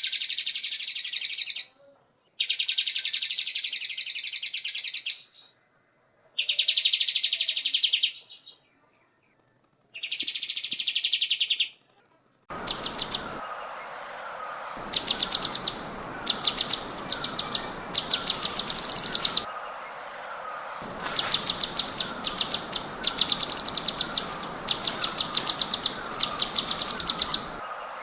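Songbird song played from recordings. First come long, dense trilled phrases of a few seconds each with short silent gaps between them. About twelve seconds in it cuts to a noisier recording: quick bursts of rapid, sharp repeated notes over a steady hiss, with softer lower chirps repeating underneath.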